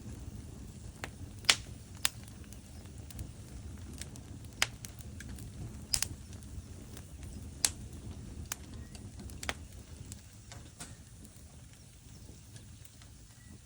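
Wood fire burning in a fireplace: a low steady rumble of the flames with sharp, irregular crackles and pops from the logs, a few of them loud, fewer near the end.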